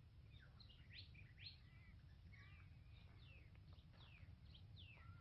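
Faint birdsong: many short, quick downward-sweeping chirps and whistles, over a low steady rumble.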